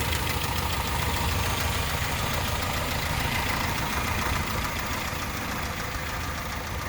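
1987 Toyota pickup engine idling steadily while still cold, not yet warmed up; it runs smoothly and evenly.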